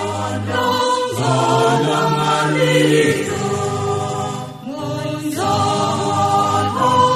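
A choir singing a devotional hymn in long held notes, phrase by phrase, with brief pauses for breath about a second in and again near five seconds.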